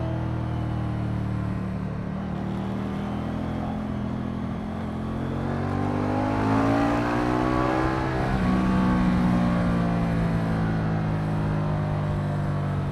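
Moto Guzzi V100 Mandello's transverse V-twin engine running under way. About halfway through the engine note rises in pitch, then drops to a lower note about two-thirds of the way in.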